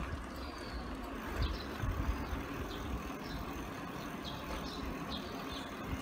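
Birds chirping in short calls, about one or two a second, over a low outdoor rumble with uneven low bumps.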